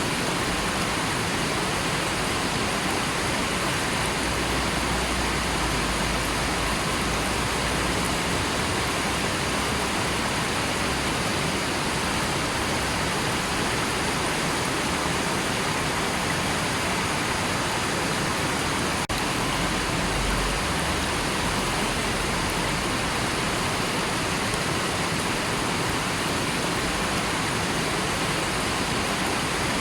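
A river's water rushing steadily, an even, unbroken hiss, with a single momentary dip about two-thirds of the way through.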